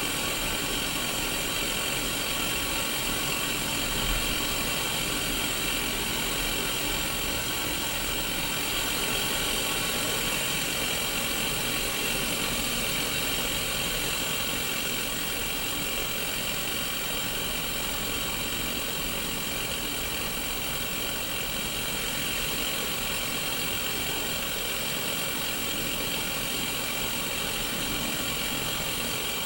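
Steady static hiss from a Sony Mega Watchman black-and-white mini CRT television showing untuned white noise.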